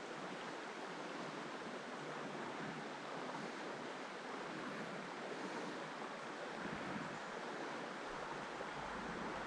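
Creek water flowing, a steady even rush with no breaks. A low rumble joins under it near the end.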